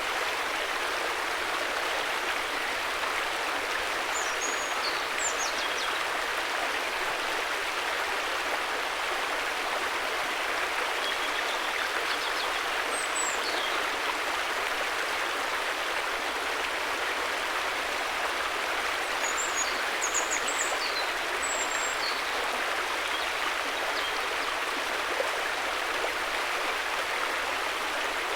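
River water flowing, a steady even rush of running water. A few short, faint high chirps sound over it now and then.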